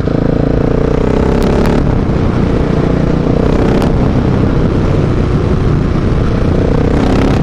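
Husqvarna 701's big single-cylinder engine through a Mivv aftermarket exhaust, loud while riding, with a few sharp pops from the exhaust, about a second and a half in, around four seconds in and near the end.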